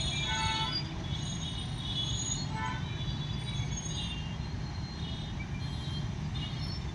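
Freight train rolling past with a steady low rumble of wheels on rail, and short high-pitched wheel squeals that come and go every second or so.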